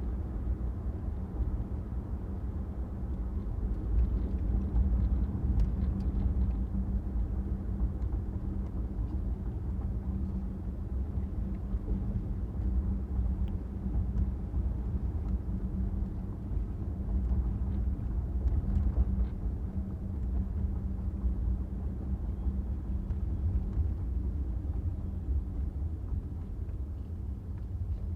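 Car driving along a street: a steady low rumble of engine and road noise, with a constant low hum and a few faint ticks.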